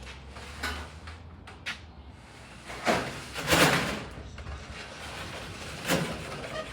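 Metal roll-up garage door being handled: a few knocks, then a louder rattling slide lasting about a second, and another knock near the end.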